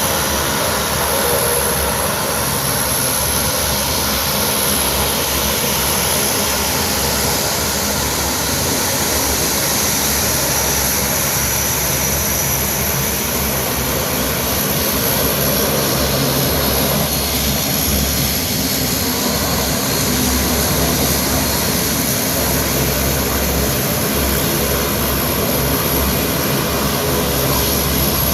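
Twin-turboprop transport aircraft in flight: a steady engine drone with a thin high whine over it.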